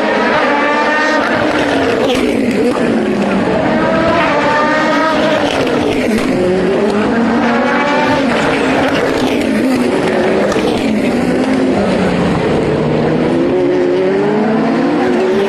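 Race car engines revving hard as cars pass one after another. The engine pitch repeatedly climbs and falls over a continuous loud track noise.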